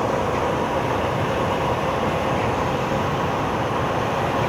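Steady road and engine noise of a moving vehicle, heard from inside, with an even rumble and a faint steady hum.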